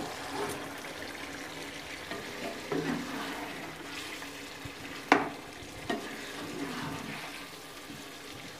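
Chicken pieces sizzling in hot oil and tomato paste in a karahi while a spatula stirs them. A steady hiss of frying runs under a few sharp knocks of the spatula against the pan; the loudest comes about five seconds in.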